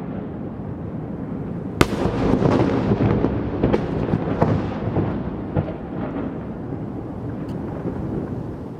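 Fireworks going off: a constant low rumble of bursts with scattered sharp cracks, one loud bang about two seconds in.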